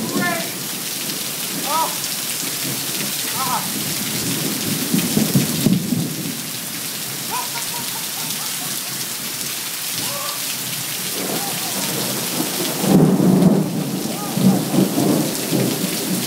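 Heavy rain pouring steadily in a thunderstorm, with thunder rumbling and swelling louder twice, about a third of the way in and again near the end. A few brief high chirps sound over the rain.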